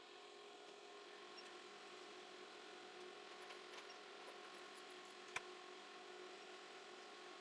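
Faint steady hum with a few steady tones, and a single sharp click about five seconds in.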